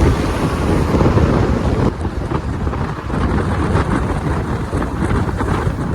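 Heavy wind rumbling and buffeting on the microphone, loud and steady.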